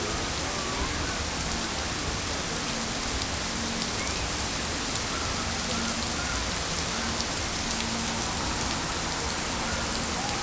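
Heavy rain pouring steadily, a dense even hiss of a Florida thunderstorm downpour with individual drops ticking through it.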